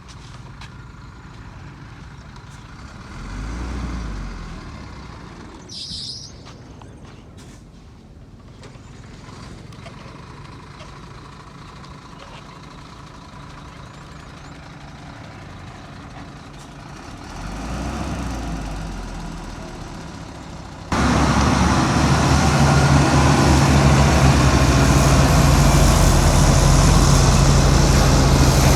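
Heavy diesel machinery engine running at a distance, swelling twice, with a brief high hiss about six seconds in. About 21 seconds in, it cuts abruptly to a much louder, close, steady diesel engine drone.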